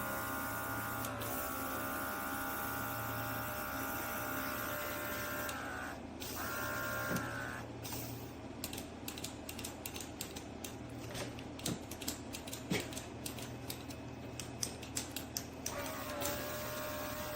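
Small electric motor of a cordless airbrush's mini compressor running with a steady whine. It stops just before 6 s, runs again briefly, then gives way to a run of light clicks and taps, and starts up again near the end.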